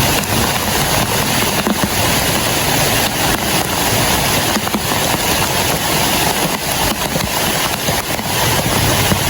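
Heavy rain falling steadily, a dense, even rushing noise with no breaks.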